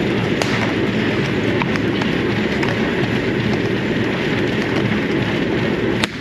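Steady running noise of a vintage train's carriage with faint scattered clicks from the wheels and rails. Near the end comes a single sharp crack: a shot from a rider's revolver.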